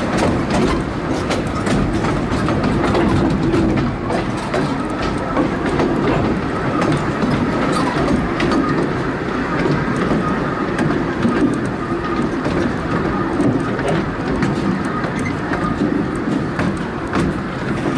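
A narrow-gauge railway carriage running along the track: steady rumbling wheel and carriage noise with irregular clicks and knocks from the rails, heard from an open carriage window.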